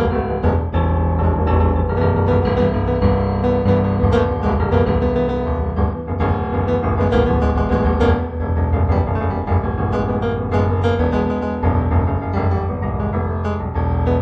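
Background piano music: an improvised-sounding piano piece with many notes struck in quick succession over sustained low chords.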